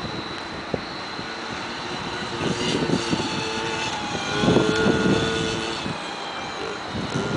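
Motocross dirt bike engines revving, growing loudest twice: about a third of the way in, and again around the middle as a bike comes close.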